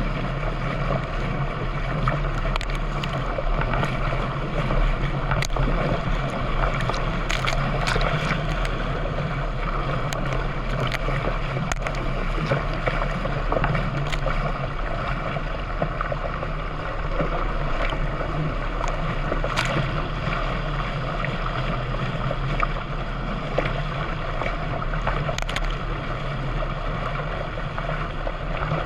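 Kayak on open water: a steady rush of water and wind under a constant low drone, with scattered short sharp splashes or knocks.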